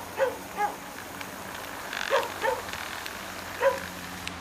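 A dog barking in short yelps, mostly in pairs, over a steady low hum.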